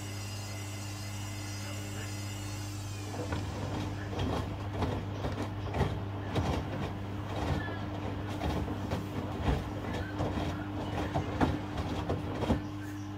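Washing machines running, with a steady motor hum. A high whine fades out about three seconds in, and irregular knocking and clattering follow as the drum turns the wash.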